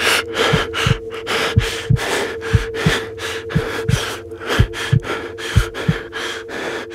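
Heartbeat sound effect, a double thump about once a second, over a steady two-note drone and quick breath-like rasps: a horror-style soundtrack.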